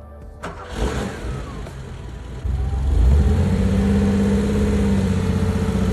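Air-cooled Porsche 911 flat-six engine running, with a burst of noise about half a second in. About two and a half seconds in it revs up sharply and then holds a loud, steady note.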